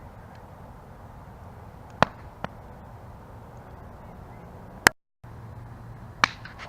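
Wood campfire burning: a steady low rush of flame broken by a few sharp crackling pops, the loudest about two seconds in and just before five seconds. The sound cuts out completely for a split second just after the second loud pop.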